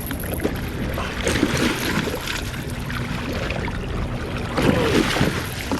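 Water sloshing and trickling at the side of a fishing boat as a hooked catfish is brought in alongside, over a steady low rumble.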